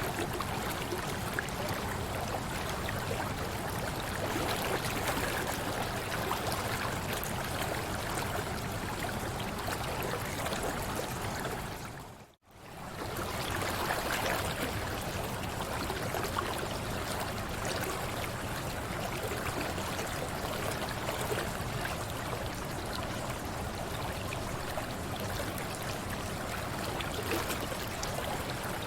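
Mountain river flowing over rocks, a steady rush of water. About twelve seconds in it fades out to silence for a moment and fades straight back in.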